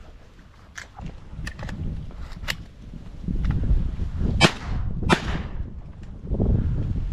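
Shotgun shots at ducks: a few fainter cracks in the first couple of seconds, then two loud blasts about half a second apart near the middle, each trailing off in a short echo. A low rumble runs under the shots from about halfway through.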